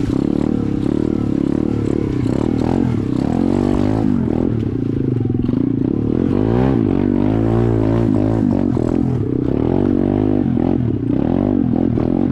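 SSR 125 dirt bike's four-stroke single-cylinder engine under load, its revs rising and falling again and again as it is ridden.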